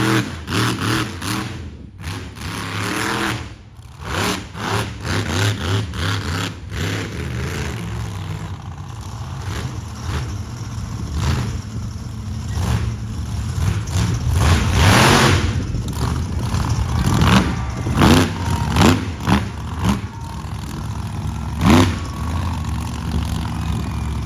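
Monster truck engine revving hard in repeated bursts, with a long climbing rev about midway and sharp blips near the end.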